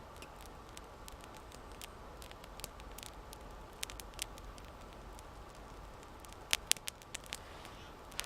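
Small campfire of damp branches crackling with sparse, irregular pops, the two loudest close together about six and a half seconds in; the wet fuel is burning poorly.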